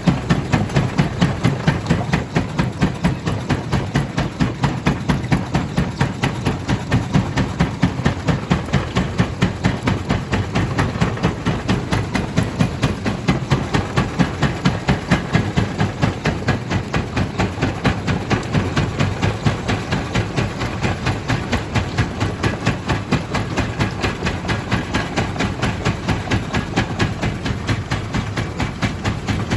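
Stone crusher machine running, a steady mechanical din with an even rhythmic knocking of about three beats a second.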